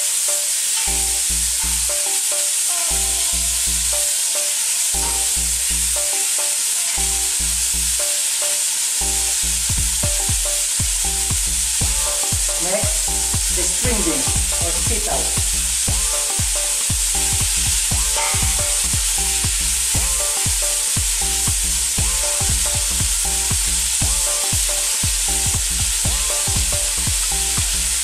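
Pumpkin and string beans frying in hot oil in a stainless steel pot: a steady sizzle, with a spoon stirring and scraping against the metal pot and knocking on it now and then.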